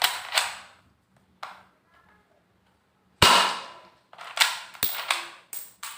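Toy pistol firing: a run of sharp shots at uneven intervals, the loudest about three seconds in.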